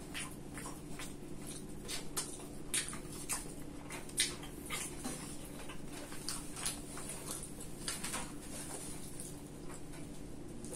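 Close-miked chewing of crispy battered tempura: irregular crisp crunches and wet mouth clicks, some louder than others, over a faint steady hum.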